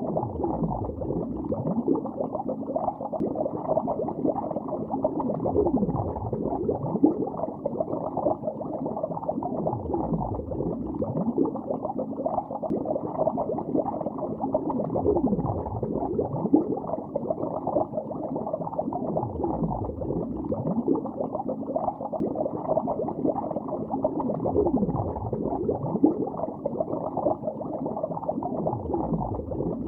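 Underwater bubbling heard from below the surface: a dense, muffled stream of bubbles gurgling continuously, with a low swooping rush about every five seconds.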